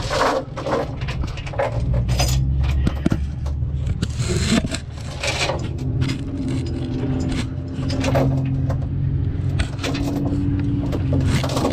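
Steel tie-down chain clanking, rattling and scraping as it is wrapped around a truck's rear axle to secure it to the trailer, over a steady low engine hum.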